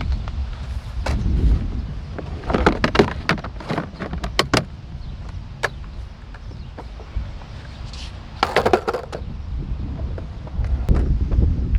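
Skateboard rolling on the concrete of an empty pool: a steady rumble of the wheels, with a quick run of clacks and knocks a few seconds in and a short scraping burst near nine seconds.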